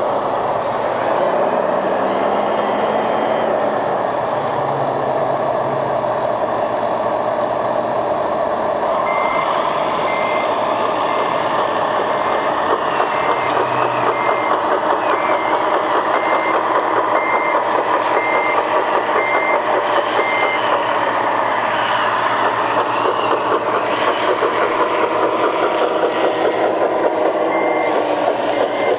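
Radio-controlled model construction vehicles running with a steady motor-and-gearbox whine. From about nine seconds in, a reversing beeper beeps evenly, a little more than once a second, stops about two-thirds of the way through, and starts again near the end.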